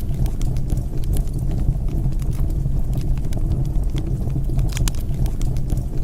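Wood fire burning in a fireplace: a steady low rumble of flames with scattered sharp crackles and pops, the louder ones about one second in and near five seconds in.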